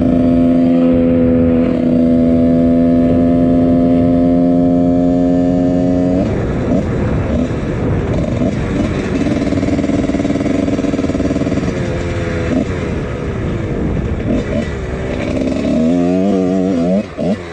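1999 Husqvarna CR125 two-stroke dirt bike engine with a Pro Circuit exhaust, held at steady revs for about six seconds, then dropping off and picking up again. Near the end it revs up and down quickly several times.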